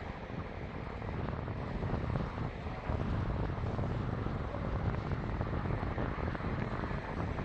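ScotRail train running across the Tay in high winds: a steady low rumble mixed with gusty wind noise.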